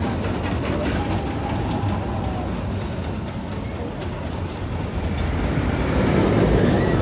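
Iron Dragon suspended roller coaster train running along its track with a rattling clatter and rumble, swelling louder near the end.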